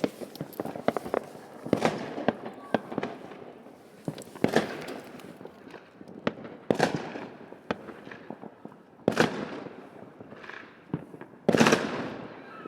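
New Year fireworks exploding: a run of sharp bangs with echoing tails, the biggest about every two seconds, and smaller cracks between them.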